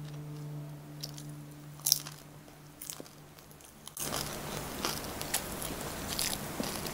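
Close-up crunchy biting and chewing of a fried lumpiang Shanghai (Filipino spring roll). A sharp crisp bite comes about two seconds in, and denser, louder crunching follows from about four seconds on.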